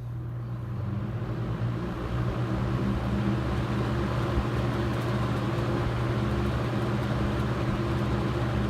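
Superlectric Model 2083 box fan spinning up over the first couple of seconds, then running steadily: a motor hum under the rush of air from the blades. Its plastic blades are out of balance, sagged from decades in a hot attic, so the fan shakes a lot.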